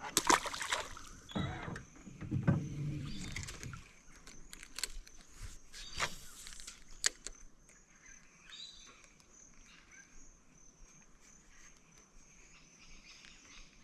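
Clatter and knocks of fishing gear being handled in a small boat for the first few seconds, then quiet creek ambience with a steady high-pitched insect drone and occasional sharp clicks.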